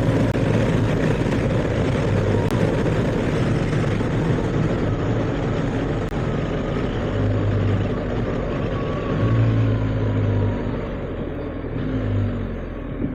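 BMW R1250GS boxer-twin engine running on the move, mixed with wind and road noise. The engine note rises and falls a few times in the second half, then the sound eases near the end as the bike slows.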